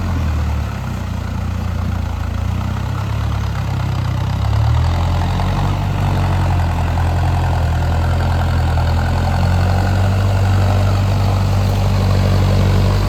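Mahindra Arjun Novo tractor's diesel engine running, its low note wavering for the first five seconds and then holding steady.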